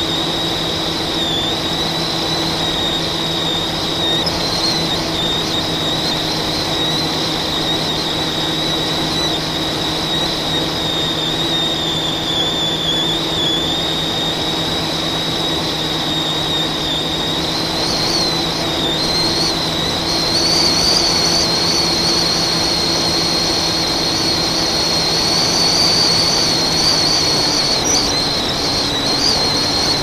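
FPV quadcopter's brushless motors and propellers running in flight: a steady high whine that wavers with the throttle and rises somewhat past the middle, over a low hum and propeller wash.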